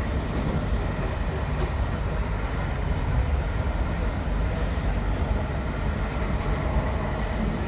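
Steady rumble of a railway passenger coach running at speed, its wheels on the rails heard from inside the carriage.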